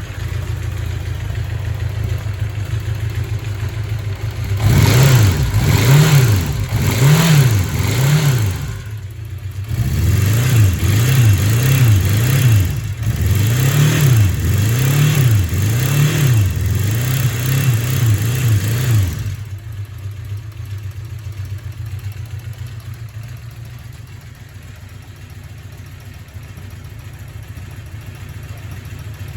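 Honda CB650 Custom's inline-four engine running freshly after a light carburettor clean: idling, then revved in a string of quick throttle blips, each rising and falling, with a short drop back to idle about nine seconds in. After about nineteen seconds it settles to a steady, quieter idle.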